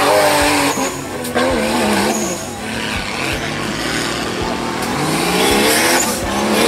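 Off-road racing buggy's engine revving hard as the buggy slides through the mud. The pitch climbs, falls away about a second in, runs lower, then climbs again near the end.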